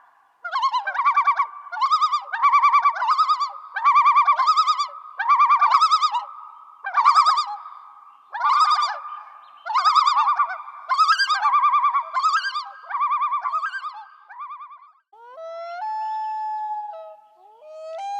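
A long series of animal calls, about fourteen short, pulsing, pitched cries coming roughly one a second. Near the end a different, steadier call begins with a rising glide.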